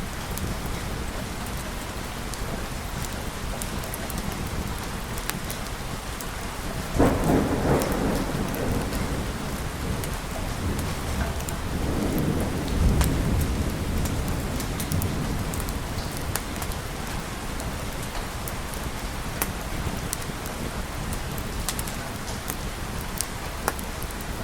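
Steady rain falling, with a sudden thunderclap about seven seconds in that rolls away. A second, deeper rumble of thunder swells and fades a few seconds later.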